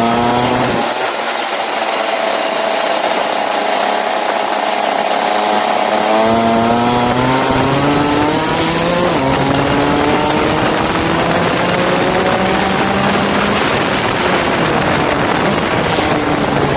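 Go-kart engine revving and easing off, its pitch climbing with each acceleration and dropping several times, over a steady hiss.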